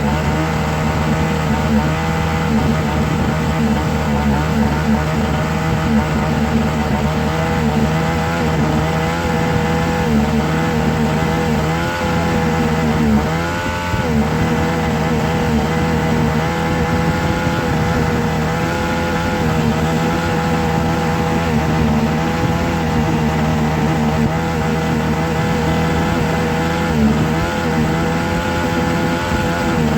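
A steady motor drone: a constant low hum under a higher whine that wavers slightly, with a brief wobble and dip about halfway through.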